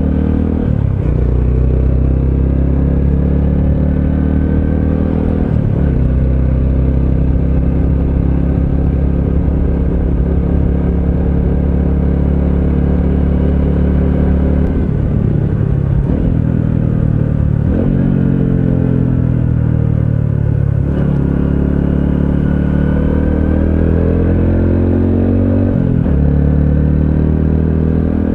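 Honda CT125 Hunter Cub's single-cylinder engine running under way, heard from on the bike. The revs drop and climb again several times, with a steady cruise for several seconds in the middle.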